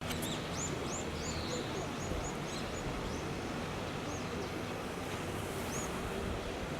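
A small bird calling: a quick run of short, high chirps, about three a second, then a few scattered ones. Underneath is a steady outdoor noise bed.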